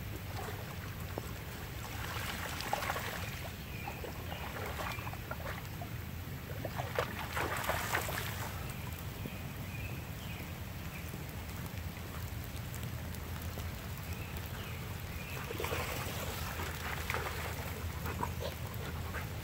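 Heavy rain falling steadily, with a low rumble of wind on the phone's microphone; three times a brief louder stretch of crackling hiss breaks in.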